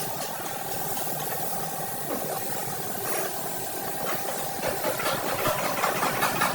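Workshop machinery: a steady, rapidly pulsing motor tone, joined about four and a half seconds in by a louder, dense crackling rattle.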